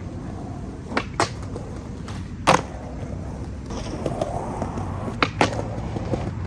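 Skateboard on Thunder-hanger, Indy-baseplate trucks rolling over concrete with a steady rumble, cut by sharp clacks of the board and trucks hitting: two close together about a second in, a loud single one at about two and a half seconds, another close pair past five seconds, and one more at the end.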